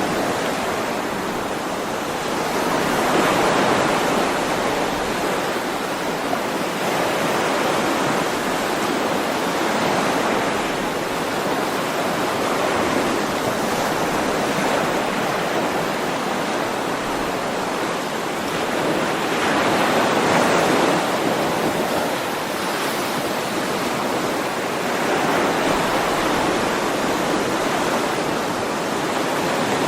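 Sea waves: a continuous rush of surf that swells and eases every several seconds.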